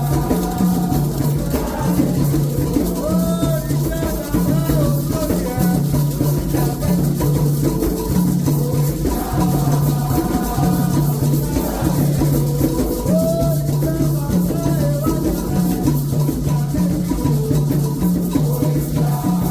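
Candomblé drumming on hand drums with a shaken rattle keeping a steady repeating rhythm, and voices singing over it.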